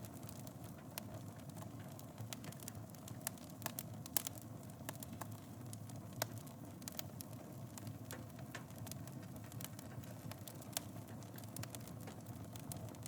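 Wood fire burning in a fireplace: a steady low rumble of flames with frequent irregular sharp crackles and pops, one louder pop about four seconds in.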